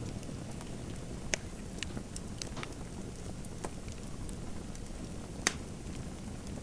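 Fireplace fire crackling: a steady low rumble of burning with scattered small sharp crackles and two louder pops, one about a second and a half in and one about five and a half seconds in.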